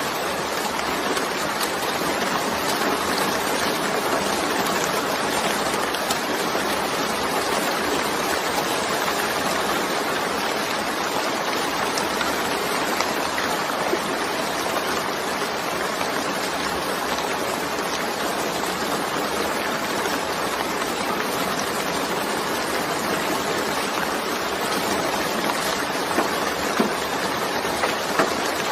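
Steady rain falling: an even, unbroken hiss, with a few sharper drop ticks near the end.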